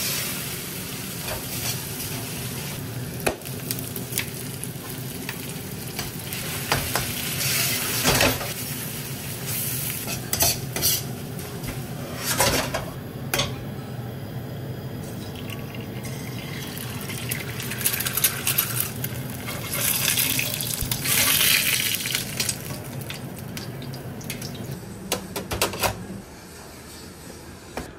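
Minced pork sizzling in a wok as a metal ladle stirs it, scraping and clanking against the pan, together with an egg frying in a small cast-iron skillet. The sizzle drops away about two seconds before the end.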